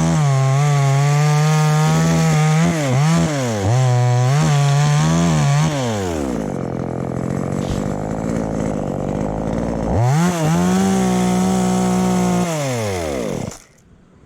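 Two-stroke chainsaw running at high revs, with the throttle eased off and reopened several times, then settling to a rough idle. About ten seconds in it revs up again and holds, then winds down and stops just before the end.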